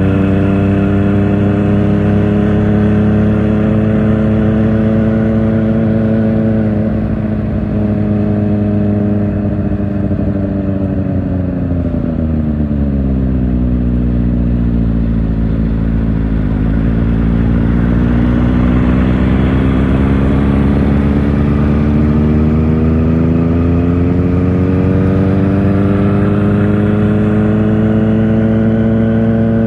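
Kawasaki Ninja ZX-4R inline-four engine through an Akrapovic exhaust, running steadily under way. About a fifth of the way in its note sinks smoothly as the bike slows. After the middle it climbs gradually again as it accelerates.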